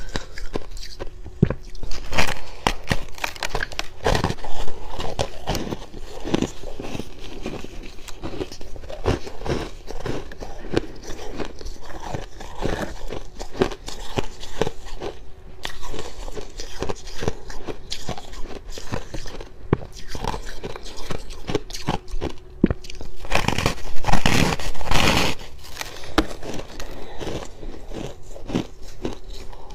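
Close-miked biting and chewing of freezer frost: dense, dry, irregular crunches, loudest in a long burst about three quarters of the way through.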